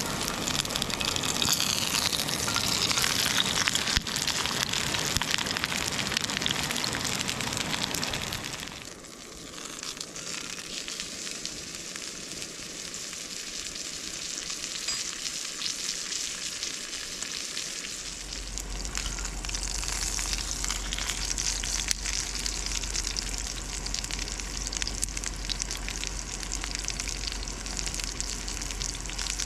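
Food sizzling and frying over a campfire, with steady crackling and fine popping.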